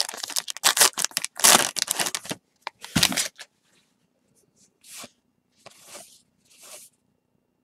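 A baseball card pack wrapper being torn open and crinkled, in a quick run of rustling bursts over the first two seconds and one more about three seconds in, then a few faint rustles.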